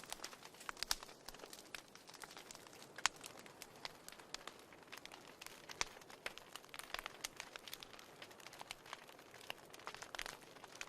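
Wood fire in a fireplace crackling: irregular sharp pops and snaps over a soft hiss, with a louder pop about three seconds in and another near six seconds.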